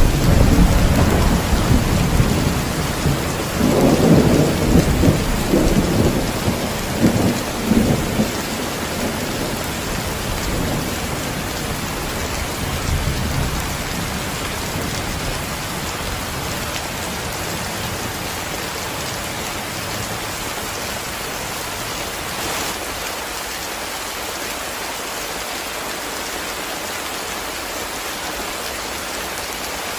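Heavy rain falling steadily, with rolling thunder rumbling through the first several seconds and dying away, leaving an even hiss of rain.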